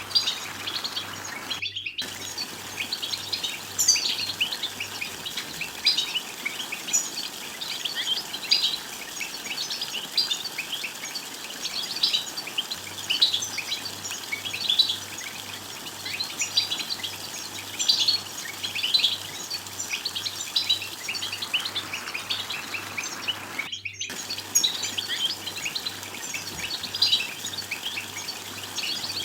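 European goldfinch song: a fast, continuous twittering chatter of high chirps and trills, broken by two brief silences.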